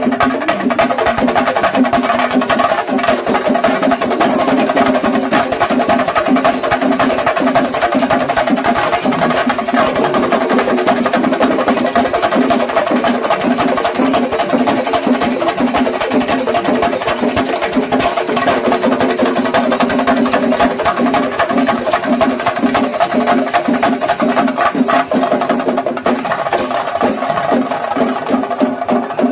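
Kerala temple-festival percussion ensemble (melam) of chenda drums playing fast, dense strokes over a steady droning tone.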